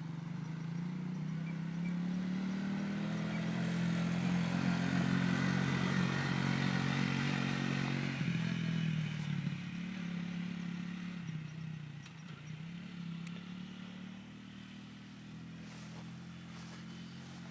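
1992 Suzuki QuadRunner 300 ATV's engine running as it is ridden past, growing louder to a peak about five to seven seconds in, then fading as it moves away.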